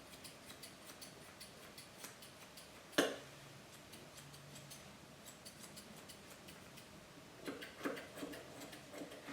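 Grooming shears snipping dog hair close up, a quick run of faint snips several a second, with one sharper click about three seconds in.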